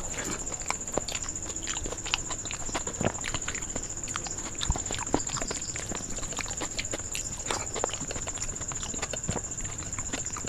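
Close-up eating sounds: chewing and lip-smacking of a mouthful of rice and curry, in many irregular wet clicks, along with fingers mixing rice and curry on a steel plate. A steady high-pitched tone runs underneath.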